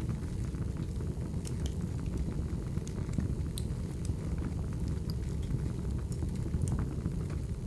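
Wood fire burning: a steady low rumble with scattered sharp crackles and pops of burning logs.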